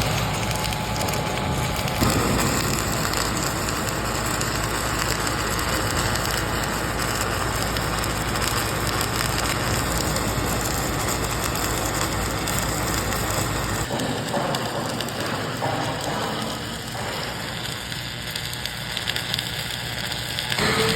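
Steady crackling and sizzling of arc welding, with a low machine rumble under it that drops away about two-thirds of the way through.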